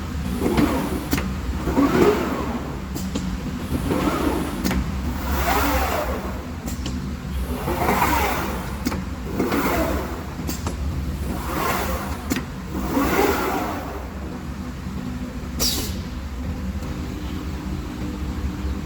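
CNC glass cutting machine's drive motors whining up and down in pitch again and again as the cutting head speeds up and slows down, over a steady low machine hum. The swoops stop about three quarters of the way through, and there is a single sharp click near the end.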